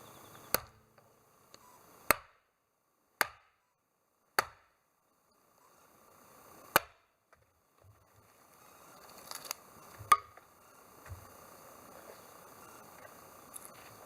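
Firewood being chopped: about seven sharp strikes of a blade into wood, irregularly spaced a second or more apart.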